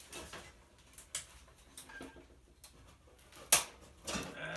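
Scattered light clicks and taps of hand tools working on a toaster oven's sheet-metal housing, with one sharp snap about three and a half seconds in.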